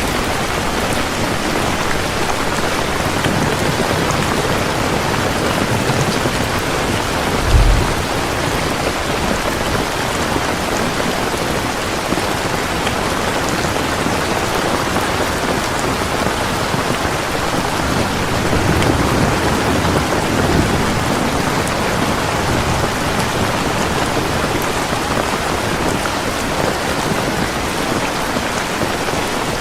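Heavy rain pouring steadily in a dense, even hiss. There is a brief low thump about a quarter of the way in and a low rumble swelling around two-thirds of the way through.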